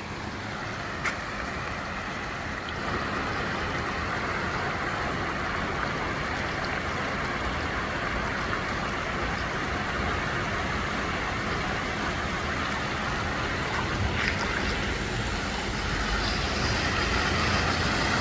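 Car driving on a wet, flooded road: steady tyre and water-spray noise over a low engine rumble, getting louder near the end.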